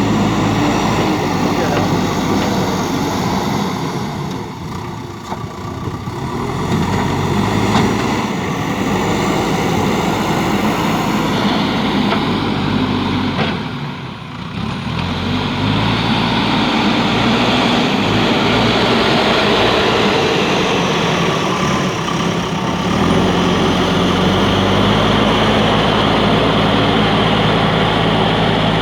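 Diesel engine of a JCB backhoe loader running steadily, its level dipping and its note shifting a few times.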